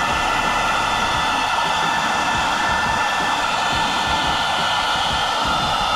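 Philips SenseIQ hair dryer running steadily at its second, highest speed setting: a constant rush of air with a faint steady whine above it.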